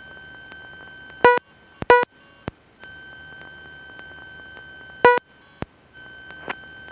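Aircraft intercom audio with a faint steady electronic whine, three short beeps, and background hiss that cuts out and back in several times.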